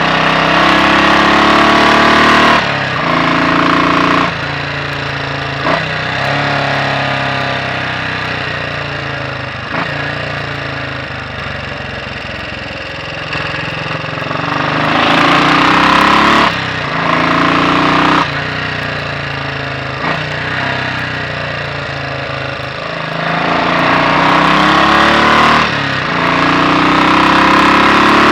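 Royal Enfield Bullet 500's single-cylinder four-stroke engine under way, its inlet cam retarded by one tooth: it pulls up in revs, drops sharply at gearchanges a few seconds in and again past the middle, runs lower and quieter for several seconds, then pulls up again near the end.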